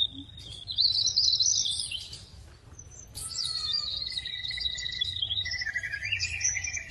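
Small bird chirping and trilling high-pitched: a burst about a second in, then a longer run of chirps from about three seconds on.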